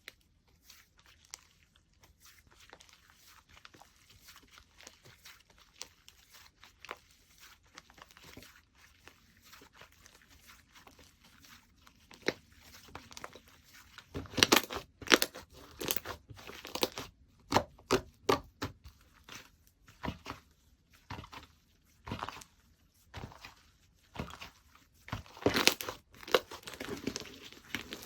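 Slime being handled: faint sticky crackles at first, then from about halfway, louder clusters of sharp clicks and pops as it is pressed, folded and stretched.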